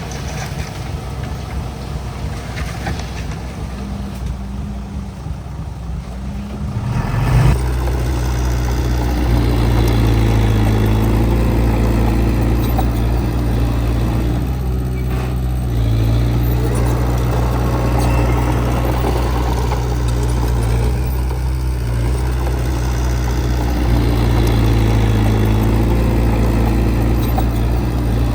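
Heavy-equipment diesel engine running. About seven seconds in it steps up to a louder, higher-powered run and holds there with small rises and falls in pitch.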